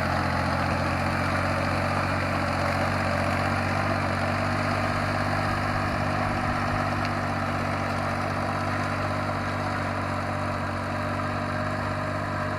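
Yanmar YM3000 tractor's diesel engine running at a steady, even speed. It eases off slightly about ten seconds in.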